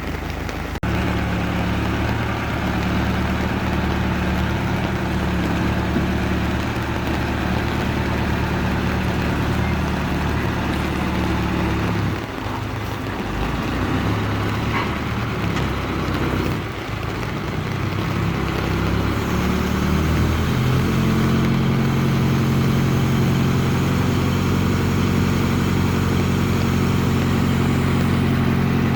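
Heavy diesel engine running steadily; it eases off briefly a little before halfway, then about two-thirds of the way through picks up to a higher, louder steady speed, as under load.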